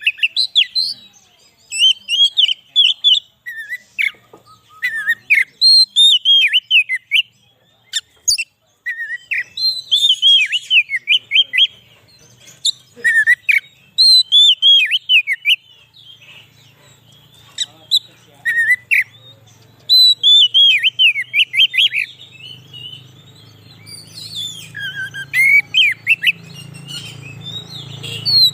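Oriental magpie-robin (kacer) singing bursts of rapid, varied whistled phrases separated by short pauses. From about halfway through, a low steady motor hum rises underneath.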